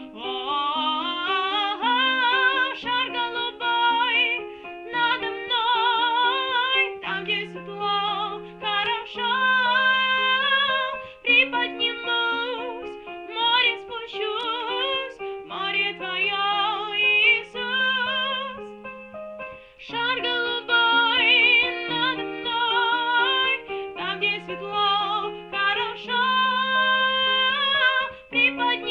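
A woman singing a Christian worship song with vibrato over steady instrumental accompaniment, with held low notes changing every couple of seconds.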